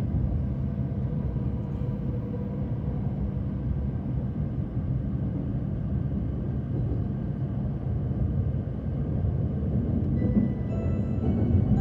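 Cabin noise of an E7/W7-series Hokuriku Shinkansen train running: a steady low rumble of wheels and traction equipment. Near the end, a melody of held tones begins.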